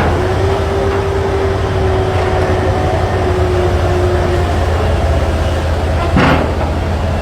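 A large engine running steadily under load, with a whine that rises and then holds steady for a few seconds, and a single sharp knock about six seconds in.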